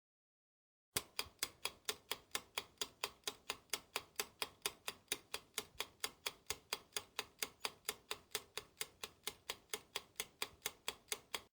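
Clock-tick sound effect: fast, even ticking at about four ticks a second, starting abruptly about a second in and cutting off suddenly near the end.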